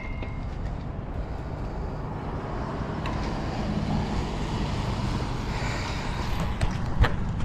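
Wind rushing over the microphone and road noise from a moving road bike, with passing traffic growing a little louder partway through. A sharp click near the end.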